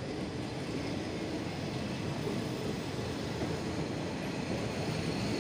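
State Railway of Thailand passenger train coaches rolling past the platform, a steady rumble of wheels on rail that grows slightly louder near the end.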